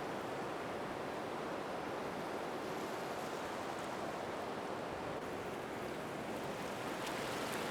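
Ocean surf: a steady wash of waves on the shore.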